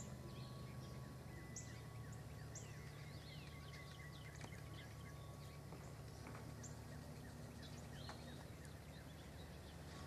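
Scattered short, high chirps of small birds calling over a steady low rumble, all faint.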